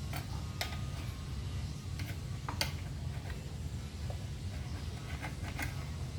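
Scattered light clicks and taps, about six of them, from hands and tools handling the generator's fuel hose and carburetor fittings, over a steady low hum.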